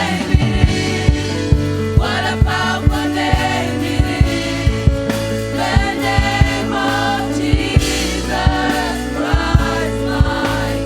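Church worship band performing a gospel worship song: group vocals over sustained keys and bass, with a steady drum beat.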